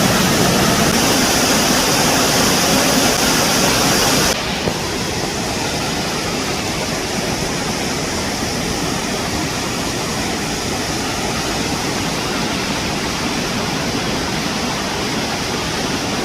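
Waterfall, a steady, loud rush of falling water. About four seconds in it drops suddenly to a somewhat softer, duller rush.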